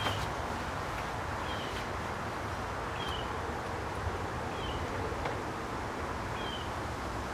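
A bird gives a short, high, falling chirp about every one and a half seconds over steady background noise, with a few faint clicks.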